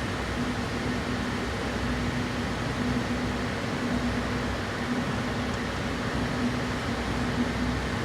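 Steady mechanical hum and hiss with a low tone that fades in and out every second or so.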